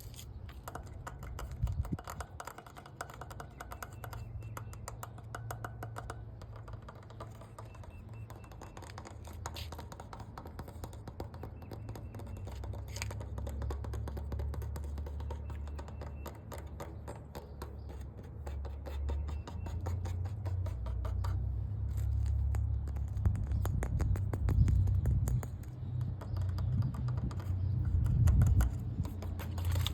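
Fast fingernail tapping and scratching on an object, many light clicks in quick succession, over a low rumble that grows louder in the last third.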